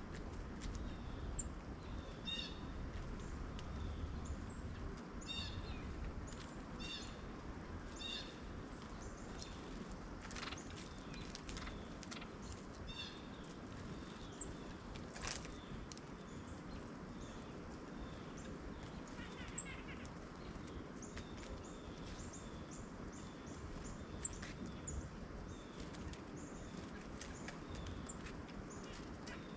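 Wild birds calling intermittently: short chirp-like notes repeated every second or so over a faint low outdoor rumble, with one brief sharp click about halfway through.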